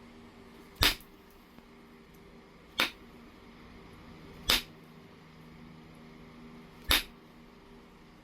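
Knapping strikes on low-grade heat-treated jasper: four sharp clicks, one about every two seconds.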